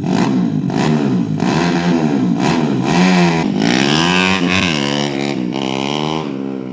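Motorcycle engine being revved up and down over and over, its pitch rising and falling about once a second.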